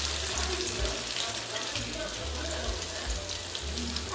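Cut okra sizzling steadily as it fries in hot oil in a pan.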